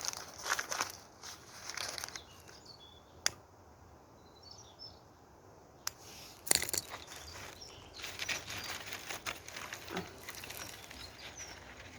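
Scattered rustling and crackling of dry twigs and leaves being handled, with a couple of sharp clicks in the quieter middle stretch. Faint bird chirps can be heard around the middle.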